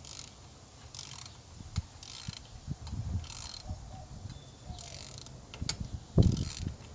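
Socket ratchet clicking in slow, uneven strokes, about one a second, as an EGR valve mounting bolt is turned, with a louder dull knock near the end.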